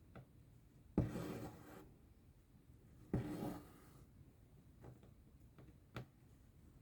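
Cross-stitch thread being drawn through the fabric: two scratchy pulls, each starting sharply and fading over most of a second, about two seconds apart, with a small click near the end.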